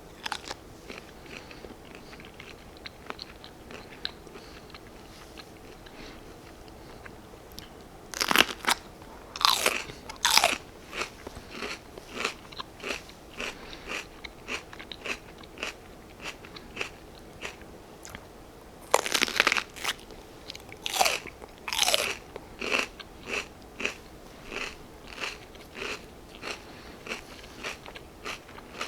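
Close-up crunching of raw baby bell peppers being bitten and chewed. Two loud crisp bites, about eight seconds in and again near the middle, are each followed by steady chewing crunches about once or twice a second. The first few seconds hold only faint chewing.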